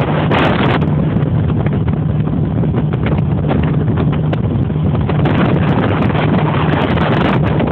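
Speedboat's engine running steadily with a low drone while under way at speed, with wind buffeting the microphone.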